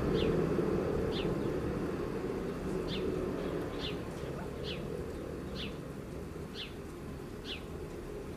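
A small bird calling a short, falling chirp about once a second, eight times, over a steady low background hum.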